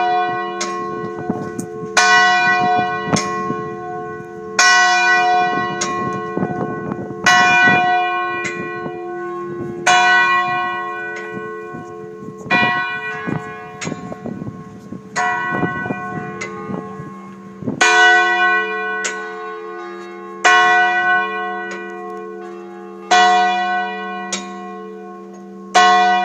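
Large firehouse bell (the Engine 1 bell of the First Hagerstown Hose Company) tolling slowly: a single stroke about every two and a half seconds, each one ringing on and fading before the next.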